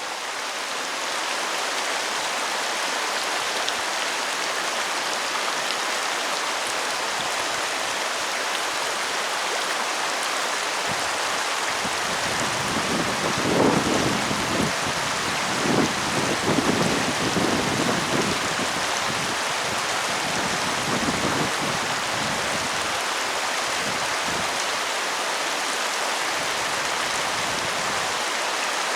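Steady rain falling, an even hiss that rises slightly in the first second. Several low rumbles come through it in the middle.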